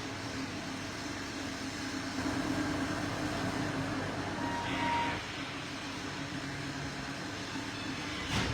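Steady low mechanical hum over even background noise, with a short high beep about five seconds in and a click near the end.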